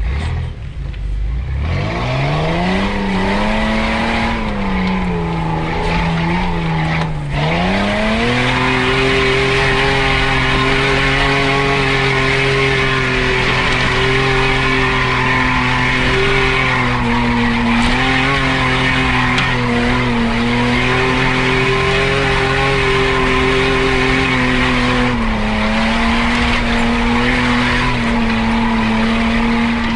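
Off-road 4x4's engine revving hard as it is driven up a muddy track. The pitch climbs over the first few seconds, drops briefly about seven seconds in, then holds high and steady before falling away at the very end.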